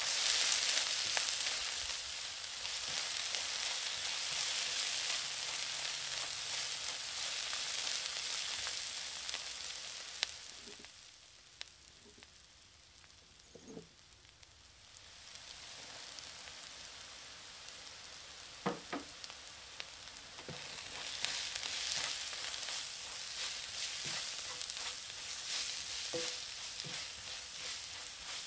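Chopped red onion frying in oil in a stainless steel wok, sizzling steadily as it is stirred with a silicone spatula. The sizzle drops away for a few seconds in the middle, with a few light clicks, then comes back and is louder near the end, when spices have gone into the pan.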